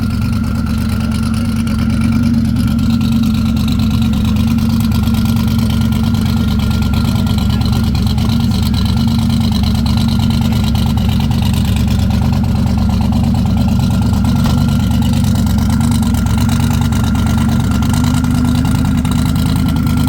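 A car engine idling steadily, loud and close.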